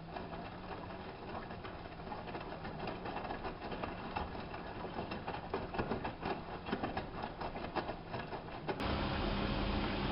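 Hanseatic HWM814A3D 8 kg front-loading washing machine running a wash: the drum turns with a low hum while the laundry and water inside slosh and clatter in irregular clicks and knocks. About nine seconds in, a louder steady hum suddenly cuts in.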